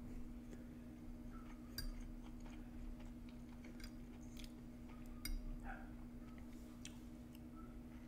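Close-miked chewing of chicken, rice and Brussels sprouts, with a few sharp clicks of a metal fork against the plate and teeth, the loudest about two and five seconds in. A steady low hum lies underneath.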